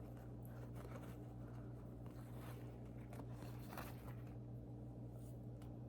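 Faint, soft scrapes and small ticks of fingers peeling the skin off a cooked beef tongue, over a steady low hum.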